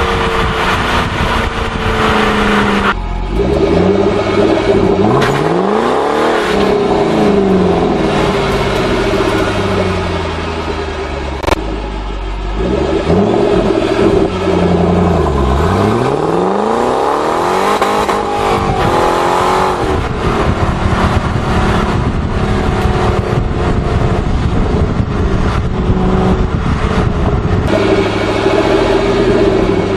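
Ford Mustang engine accelerating hard through the gears, its pitch climbing in each gear and dropping back at each shift. A single sharp click comes a little over halfway.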